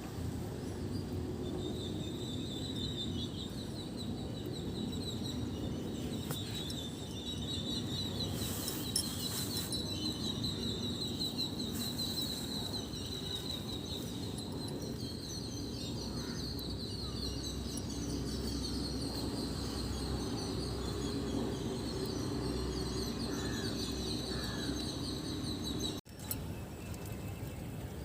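Small birds chirping and twittering in a rapid, continuous high series over steady low background noise, broken off abruptly near the end.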